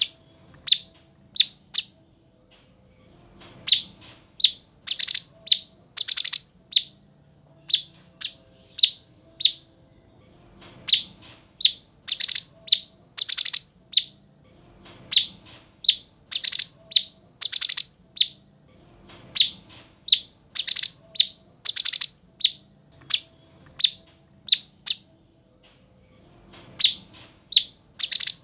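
Cucak cungkok calling in quick series: short, sharp high notes repeated about every half second to second, broken up by clusters of louder, very shrill chirps.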